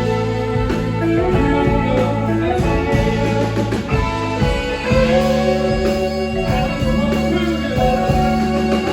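Live rock band playing an instrumental passage: electric guitar lines over a sustained bass and band backing.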